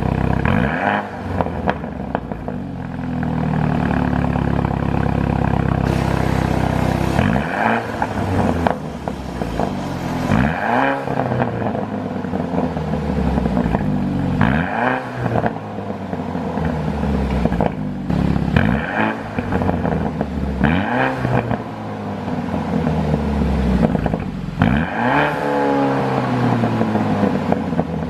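BMW 428i's turbocharged 2.0-litre four-cylinder revved repeatedly, each rev rising in pitch and dropping back to idle. The exhaust pops and crackles as the revs fall, from a tune set up to pop on overrun.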